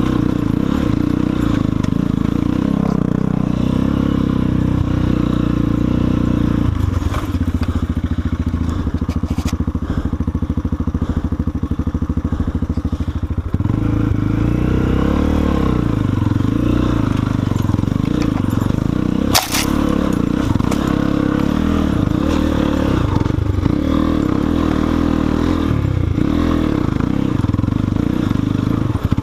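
Guerrero GXR250 dirt bike engine labouring up a rough trail, its revs rising and falling with the throttle. There is a steadier pull in the middle and a single sharp knock, like the bike striking a rock, about two-thirds of the way through.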